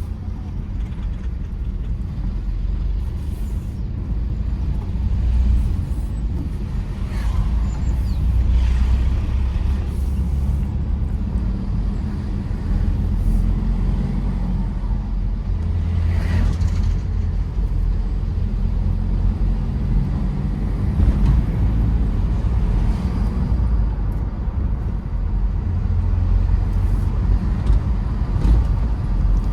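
Tata Safari Storme SUV on the move: its diesel engine and tyre noise make a steady low rumble, with a few brief knocks along the way.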